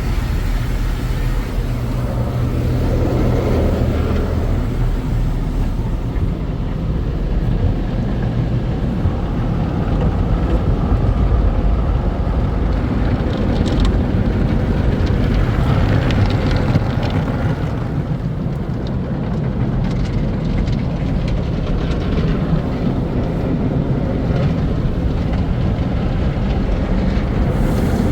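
Car wash tunnel machinery and spray running, heard from inside a car being pulled through an NCS MacNeil conveyor tunnel: a loud, steady low rumble that swells and eases as the car passes the different stages.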